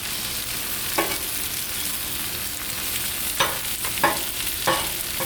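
Potato wedges and vegetables sizzling in oil on a Blackstone flat-top griddle, a steady hiss. A utensil knocks sharply against the griddle once about a second in and four times in quick succession in the second half, as the food is pushed around.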